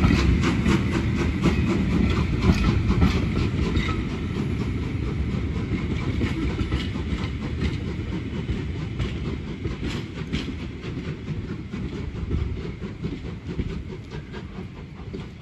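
Passenger coaches of a departing steam-hauled train rolling over rail joints and pointwork: quick repeated wheel clacks over a low rumble, fading as the train pulls away.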